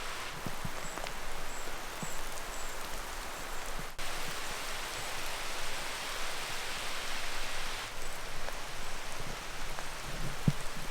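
Rain shower falling on the trees overhead, a steady rush of rain with a few sharper knocks of drops near the end.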